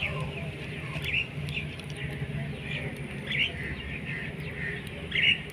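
Small birds chirping in short, scattered calls, over a faint steady low hum.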